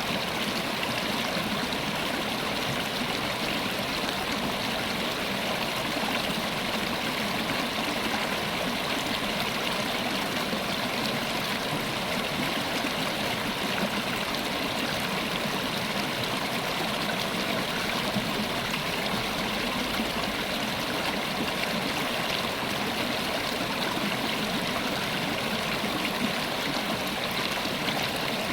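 River water running steadily over rocks, an even rushing and babbling flow.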